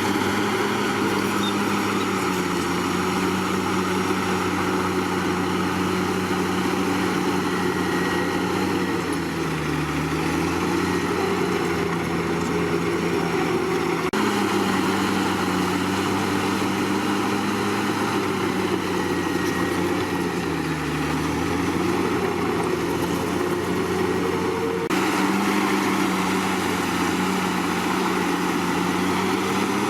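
Komatsu D61PX bulldozer's diesel engine running steadily, its pitch dropping briefly and recovering twice.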